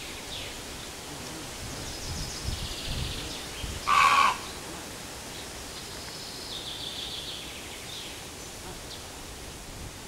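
A single short, harsh bird call about four seconds in, over a steady outdoor hush, with small songbirds trilling high in the background twice.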